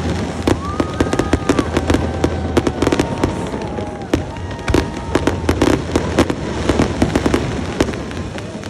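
Fireworks bursting in a dense, continuous barrage of sharp bangs and crackles, with a few brief held tones mixed in.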